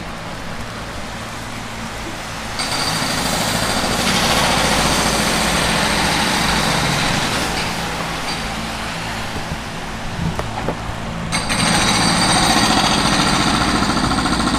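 Road-work machinery: a pneumatic drill hammering rapidly over a steady engine drone. It grows louder about two and a half seconds in, eases off, and picks up again near the end.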